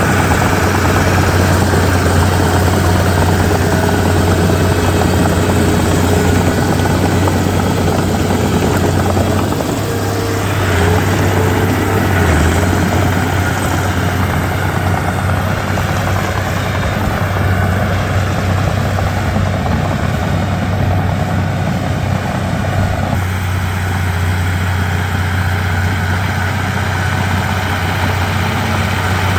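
Komatsu D31P bulldozer's diesel engine running steadily with a deep hum, the level dipping briefly about ten seconds in.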